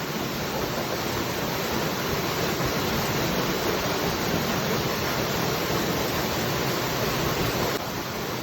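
Waterfall: a steady rush of falling water that drops a little in level, suddenly, near the end.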